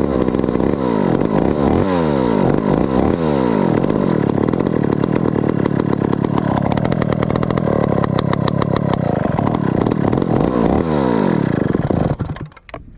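Stihl 051 two-stroke chainsaw engine running, revved up and down several times in quick succession, held steady for several seconds, revved again, then stopping about a second before the end.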